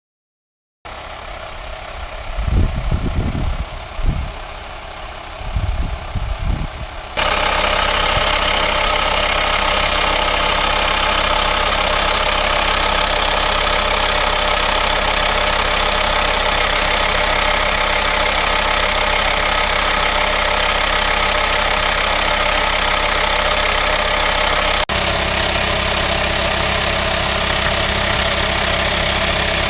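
VW Transporter T5 2.5 TDI five-cylinder diesel idling with the bonnet up, with a steady hiss from the engine bay that sounds like a vacuum leak. It starts quieter with a few low thumps and becomes loud and steady about seven seconds in.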